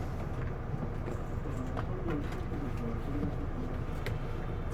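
Isuzu Erga city bus's diesel engine idling with a steady low rumble, heard from inside the cabin. Between about one and a half and three and a half seconds in, a run of short, low, wavering notes sounds over it.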